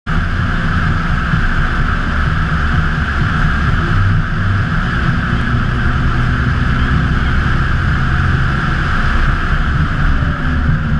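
Polaris Slingshot three-wheeler cruising at steady speed: an even engine drone under constant wind and road rush.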